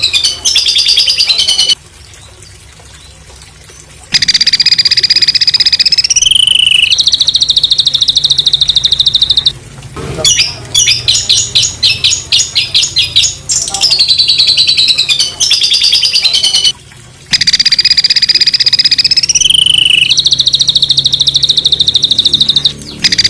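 Songbird singing harsh, rapid staccato trills and rattling bursts ('tembakan kasar'), high-pitched, in phrases broken by short pauses. A looped masteran recording: the same run of phrases, including one quick rising-then-falling whistled glide, plays again about halfway through.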